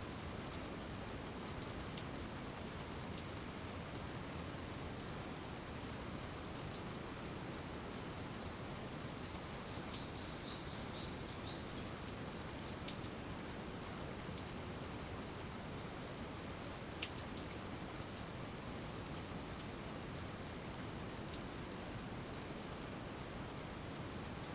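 Steady rain falling, with scattered sharp drips and taps of drops hitting surfaces. A brief cluster of high chirps comes through about ten seconds in.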